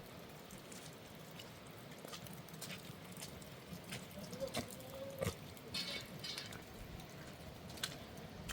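Light rain pattering, with scattered drips and small knocks.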